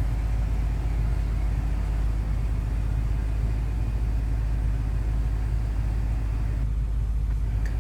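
Steady low rumble in a car's cabin, even throughout with no other events.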